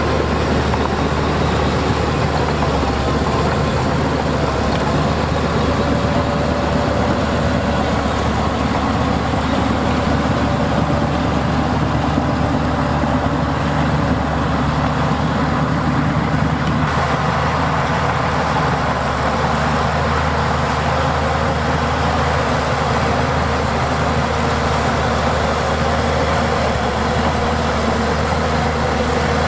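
Heavy diesel earthmoving machinery running steadily under load, a deep engine drone with a wavering whine above it.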